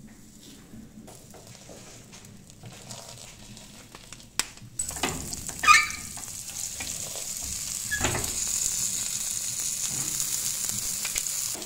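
Paratha frying in oil on a flat griddle (tawa): a steady high sizzle starts about five seconds in and cuts off suddenly at the end. A metal spoon knocks and scrapes on the griddle a few times as the oil is spread.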